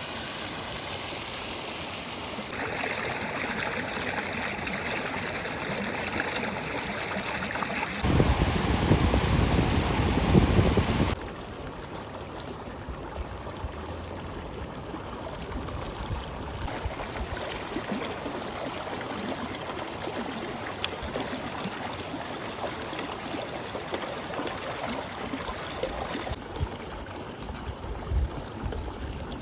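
Flowing river water, a steady rushing that changes abruptly several times, loudest and deepest for about three seconds starting around a quarter of the way in.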